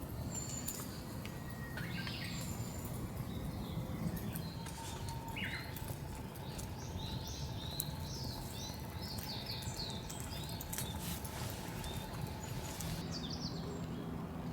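Wild birds chirping and calling repeatedly over a steady background hiss, with scattered small clicks and ticks.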